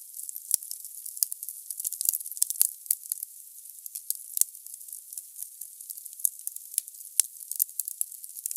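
Wood fire burning in a fireplace: steady hiss with irregular sharp crackles and pops of burning logs.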